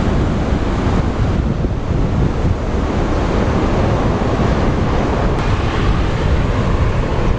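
Wind blowing across the microphone: a loud, steady rushing noise, heaviest in the low end.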